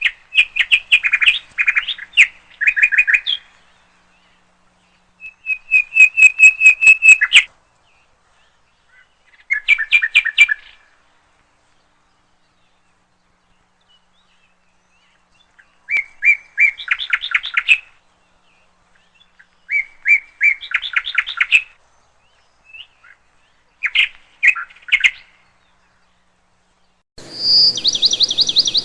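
A songbird singing in short phrases of rapid repeated chirps, one phrase every few seconds. Near the end a steady outdoor hiss comes in under louder, higher chirps.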